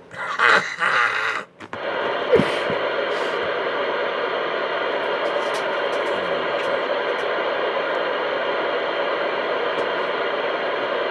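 CB radio receiver hissing with steady static through its speaker, after a brief burst of a voice coming over the radio at the start.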